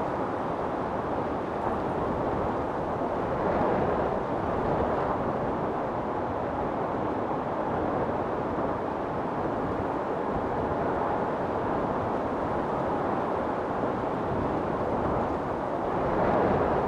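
Storm wind blowing in a steady rush, swelling in gusts about four seconds in and again near the end.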